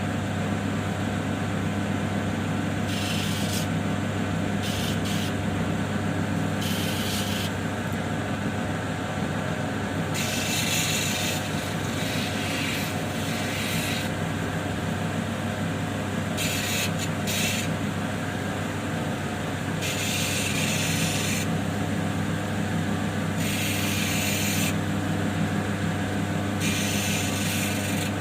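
Lapidary grinding wheel running steadily with a low motor hum. A small opal is pressed against the wet 1200-grit wheel about ten times, each contact a short gritty hiss lasting a second or so.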